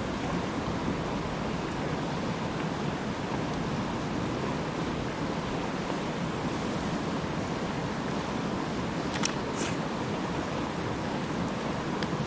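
Steady rushing background noise, with a few sharp campfire pops about nine seconds in and again near the end.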